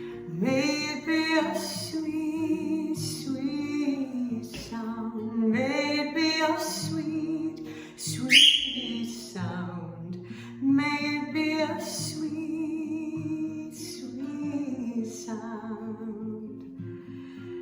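A woman singing a slow worship song to her own acoustic guitar, the chords strummed steadily beneath her voice. About eight seconds in, one of her pet birds gives a single loud, high squawk over the singing.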